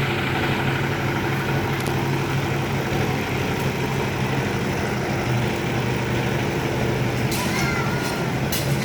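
An Isuzu Elf dump truck's diesel engine running at a steady speed. Near the end come a few brief higher-pitched sounds and clicks.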